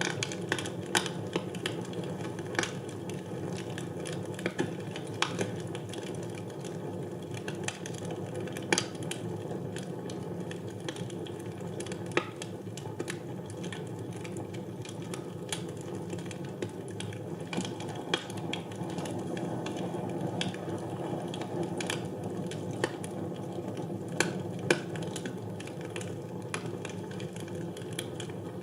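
Wood fire burning in a fireplace: a steady low rumble of flames with irregular crackles and sharp pops, several each second.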